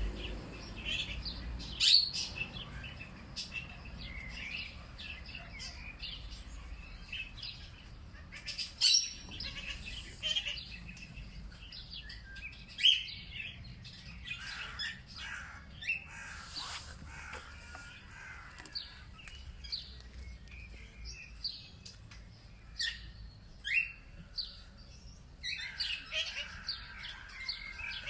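Wild birds chirping and calling in short, scattered notes, several louder calls standing out now and then and a busier flurry near the end, over a low steady rumble.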